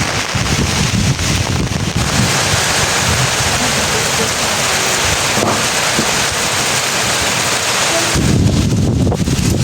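Heavy rain pouring down as a dense, steady hiss, starting abruptly about two seconds in and stopping abruptly near the end. Before and after it, wind buffets the microphone with a low, gusty rumble.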